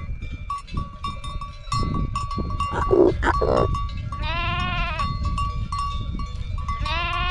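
A farm animal calling twice, each call about a second long with a wavering pitch, over a steady low rumble. A short rough burst of noise, the loudest sound, comes about three seconds in, before the first call.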